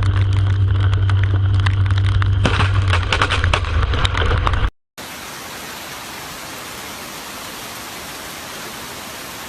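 Storm noise in two parts: first a loud low rumble with scattered crackling patter, then, after a brief dropout about five seconds in, a steady even hiss of rain.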